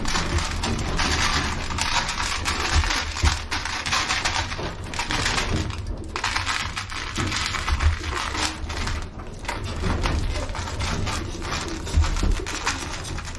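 Dry pigeon feed (grain and seed) being poured out: a continuous dense rattle of many small hard grains. The rattle eases briefly about six seconds in and again around nine seconds.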